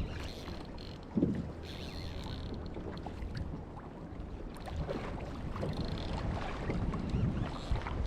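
Wind buffeting the microphone over water sloshing around a kayak at sea, with a single thump about a second in.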